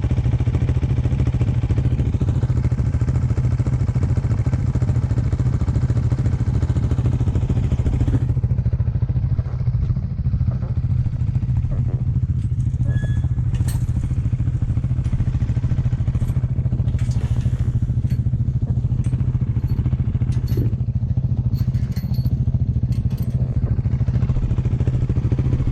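Dirt bike engine running at a steady low pitch. About eight seconds in the wind hiss drops away, and scattered light clicks and knocks follow.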